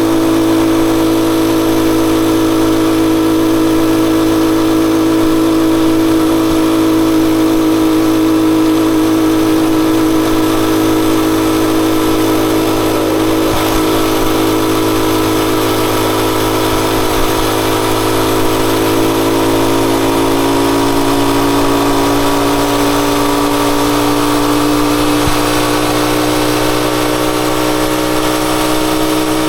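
Rusi Chariot 175 motorcycle engine running steadily, its pitch easing down slightly after about twenty seconds.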